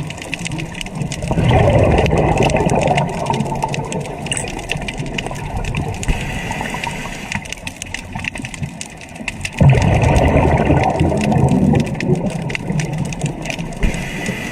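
A motor running steadily with water sloshing and gushing; the water noise surges louder about a second and a half in and again near ten seconds in.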